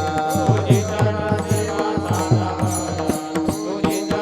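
Devotional kirtan accompaniment. A fast, even drum beat with bright metallic cymbal clicks runs throughout, and a sustained organ-like note enters about two seconds in. The end of a sung line fades out at the start.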